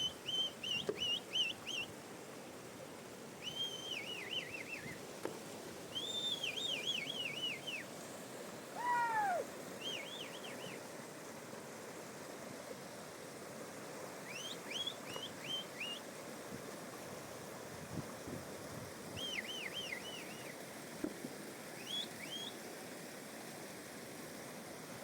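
A songbird singing short phrases of quick, repeated down-slurred whistled notes, about eight phrases with pauses between them, plus one lower falling call about nine seconds in, over a steady rushing background.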